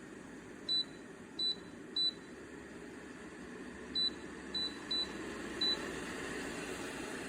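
Bladeless tower fan's control beeping seven short, high beeps as its settings are changed, over the steady rush of its airflow, which grows a little stronger near the end.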